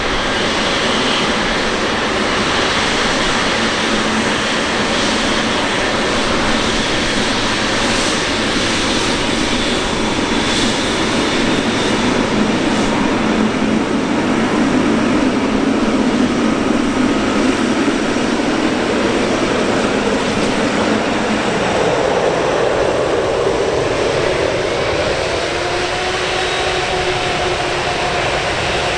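Jet airliner engines running loud and steady, with the tone changing about three quarters of the way through as faint steady whines come in.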